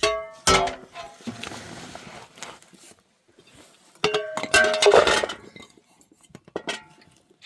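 Dishes and pots clattering and clinking as they are handled, with ringing notes after the strikes. One burst of clatter comes at the start, another about four seconds in, and a lighter clink near the end.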